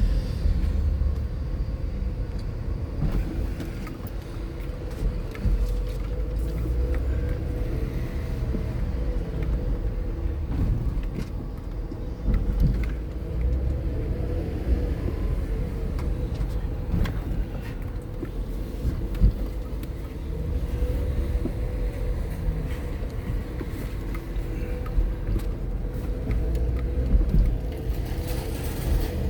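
A car in motion: a steady low road rumble with a constant hum and a few faint clicks.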